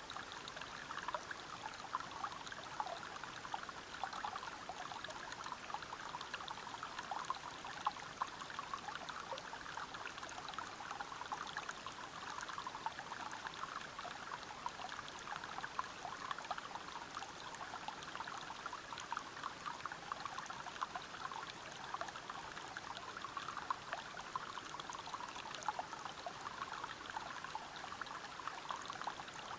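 River water pouring and splashing over rocks at a waterfall: a steady rush made of many small irregular splashes.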